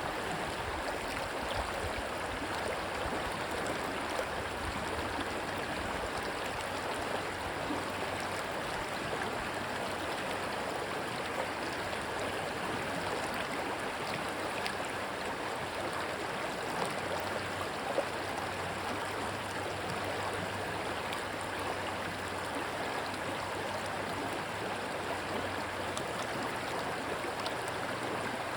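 Rushing water of a stream, a steady even wash of noise with no breaks, and a faint low drone underneath through the middle.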